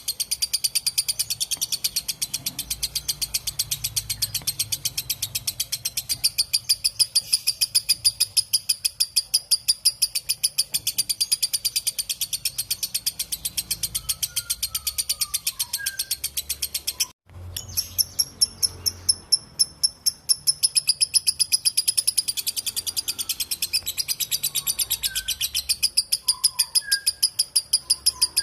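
Lovebird giving its long ngekek trill: a rapid, evenly spaced run of shrill chattering notes that breaks off briefly about 17 seconds in and then starts again.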